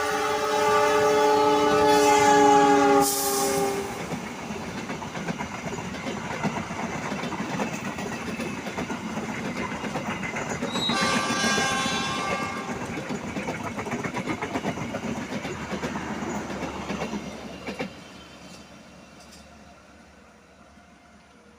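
Train horn sounding a loud multi-note chord that cuts off about three and a half seconds in, then a train rumbling and clattering past over the rails for about fourteen seconds, with a brief high tone near the middle, before the sound fades away.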